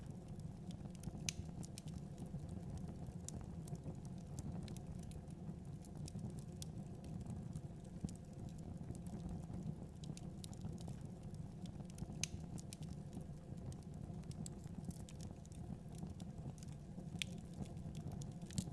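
Fire burning in a fireplace: a steady low rumble with sharp crackles and pops at irregular intervals.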